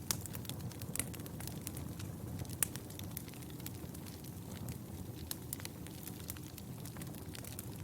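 Wood fire burning in a fireplace: a steady low rumble of flames with irregular crackles and sharp pops, a few louder ones near the start and about two and a half seconds in.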